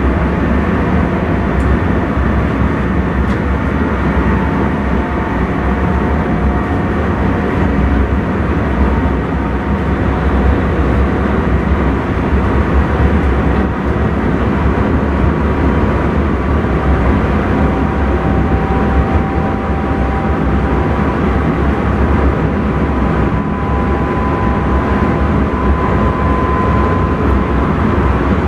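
Intercity train running steadily at speed, heard from the driver's cab: a constant low rumble of wheels on rail, with a faint whine that slowly shifts in pitch.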